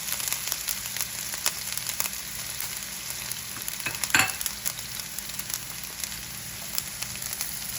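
Finely chopped onion, ginger and garlic sizzling and crackling in hot oil in a frying pan as they are sautéed and stirred, with one louder short sound about four seconds in.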